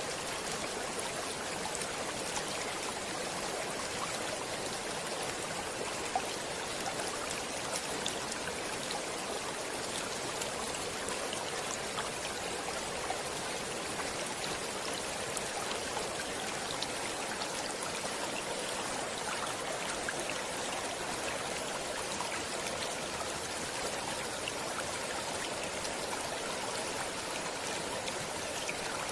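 Stream water running steadily, a continuous even rush with scattered small drips and splashes.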